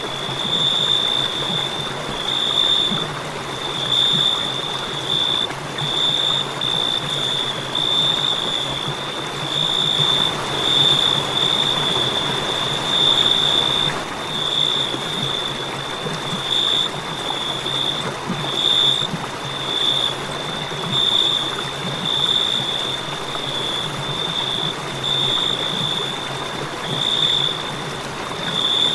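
Crickets chirping: a high, steady trill that comes in pulses about a second apart, over a constant rushing noise.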